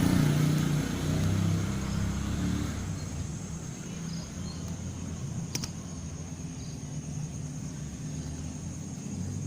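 A motor vehicle's engine going by, loudest at the start and fading away over the first few seconds, under a steady high thin tone. A single sharp click about five and a half seconds in.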